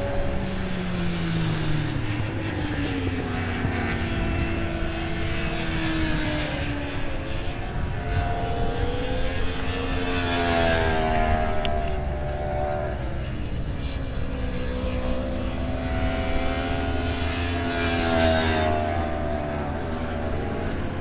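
Several four-stroke superbike engines running at once, revving and passing, their pitch rising and falling in overlapping glides. The loudest swells come about a third of the way in, around the middle and near the end.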